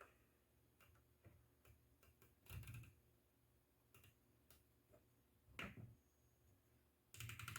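Near silence with scattered faint clicks and a few soft knocks, about 2.6 s in, 5.6 s in and again near the end.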